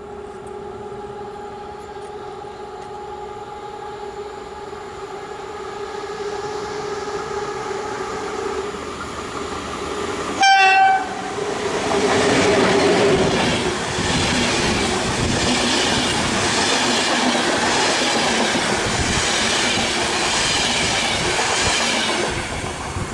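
Locomotive-hauled passenger train approaching with a steady hum that grows louder, then one short horn blast about ten seconds in. It passes at speed with rhythmic wheel clatter over the rail joints, which drops away near the end.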